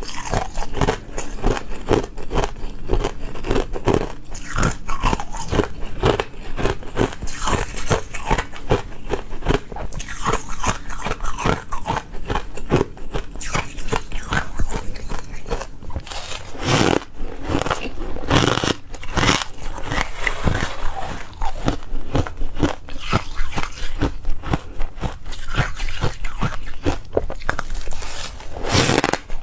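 Ice being bitten and chewed close to the microphone: a dense run of sharp, crackling crunches, one after another.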